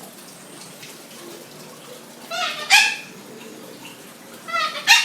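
Pet cockatoo giving two loud, shrill calls, about two seconds in and again near the end.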